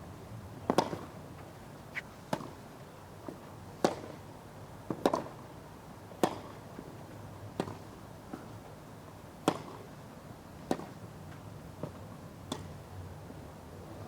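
Tennis rally: a ball struck back and forth by racquets, with about ten sharp hits roughly every second and a quarter and fainter bounces between them, over a hushed crowd.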